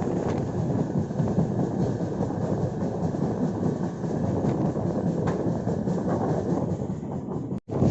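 Moving passenger train running along the track: a steady rumble and rattle. It cuts out for an instant near the end.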